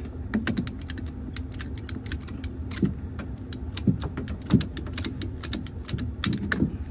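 Rapid, irregular sharp clicks, several a second, from a hand tool cutting through the clogged condensate drain line, over a faint steady hum. A louder knock comes at the very end.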